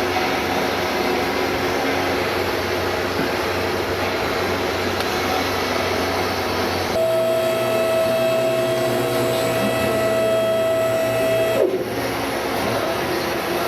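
Electric hydraulic pump motor of a car lift running with a steady whir. About seven seconds in a steady whine rises over it and holds for a few seconds, then cuts off with its pitch sagging and a short knock as the motor stops.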